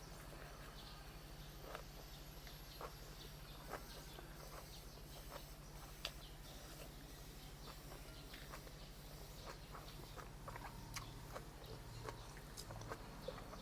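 Faint eating sounds: scattered soft clicks of chewing and mouth noises, a few every second or two, over a steady low hum.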